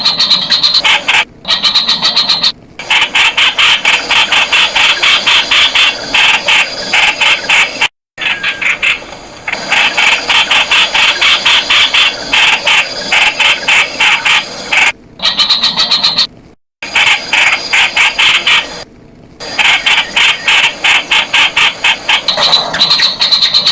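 Streak-eared bulbul calling loudly: a fast, unbroken run of short repeated notes, many a second, interrupted by a few brief silent gaps.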